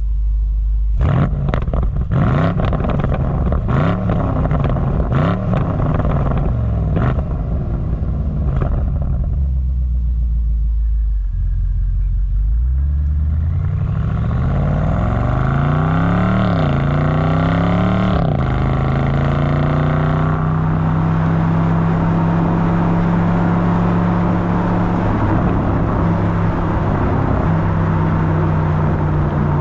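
BMW M850i's 4.4-litre twin-turbo V8 accelerating hard, its note climbing through the gears of the eight-speed automatic with two quick upshifts, then settling to a steady cruise. Several sharp pops sound over a low drone in the first seconds.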